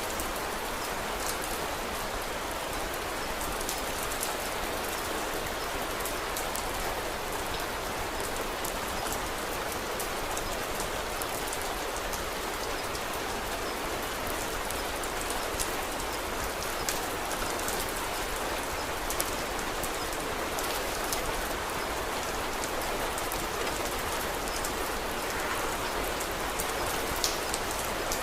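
Steady, even rain falling, with scattered sharp ticks through it and a few more near the end.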